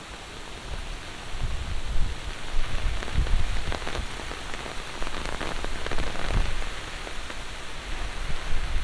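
Heavy monsoon rain falling steadily, getting louder about a second in, with close drops heard as separate taps over the hiss and a low uneven rumble underneath.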